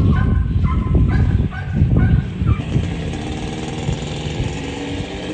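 Motorbike running at low speed, with a steady low rumble of engine and wind. During the first two and a half seconds, a string of short, high sounds alternates between two pitches over it.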